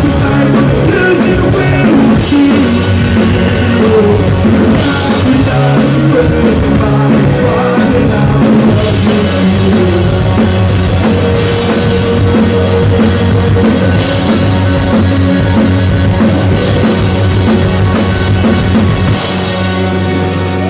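Live rock music with drums and guitar, loud and poorly recorded. The music drops away about 19 seconds in, leaving a steady low hum.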